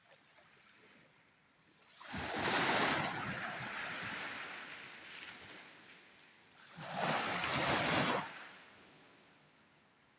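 Sea waves breaking on the shore twice: one about two seconds in that washes out slowly over several seconds, and a shorter one about seven seconds in.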